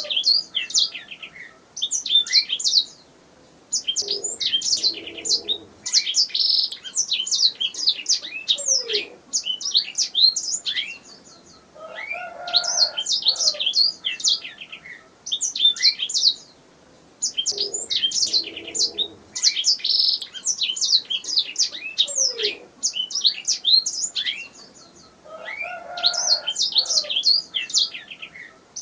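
Domestic canary singing: long phrases of fast, high chirps and trills broken by short pauses.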